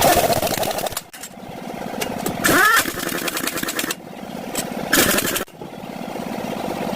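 An engine running steadily, broken by abrupt cuts, with two short loud bursts of hissing noise, the first carrying a brief whistling glide.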